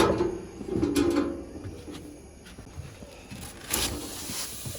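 Knocks and clatter of the cooked wild boar leg being set on the gas grill's grate. About four seconds in, a steady hiss starts as the meat begins to sizzle.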